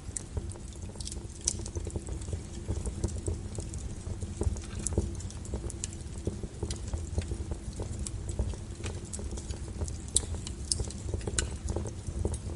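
Wood fire burning in a fireplace: a steady low rumble with many scattered, irregular crackles and sharp pops from the logs.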